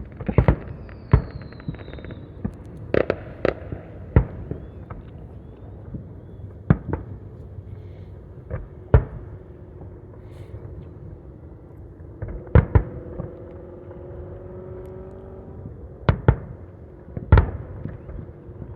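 Aerial fireworks shells bursting: about a dozen sharp booms at uneven intervals, some in quick pairs, over a steady rumble of more fireworks going off farther away.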